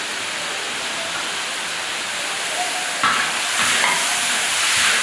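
Food sizzling in hot oil in a wok: a steady frying hiss that grows louder about three seconds in, as when more food hits the hot pan.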